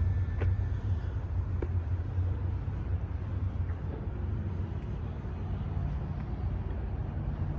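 Ford 6.4-litre Power Stroke V8 turbo-diesel idling with a steady low rumble, growing slightly fainter, with a couple of faint clicks.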